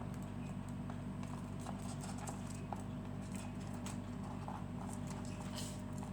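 Irregular light clicks and taps, scattered throughout, over a steady low electrical hum.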